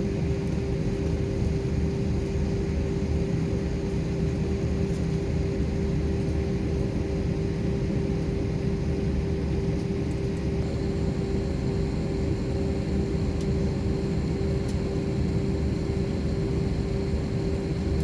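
Airliner cabin noise heard from inside the cabin: a steady engine drone and low rumble with a constant hum. A faint high whine joins about halfway through.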